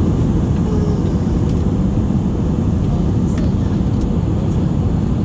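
Steady low rumble of jet airliner engine and airflow noise heard from inside the passenger cabin.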